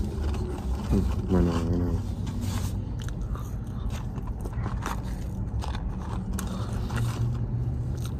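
A man biting and chewing French fries, with short mouth clicks throughout. A brief hum about a second in is the loudest moment, over a low steady drone.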